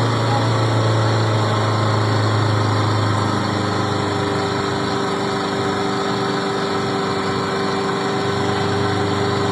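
A small engine running steadily, its note changing about three seconds in.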